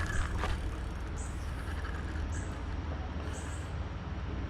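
A steady low rumble, with a short, high bird chirp repeating about once a second.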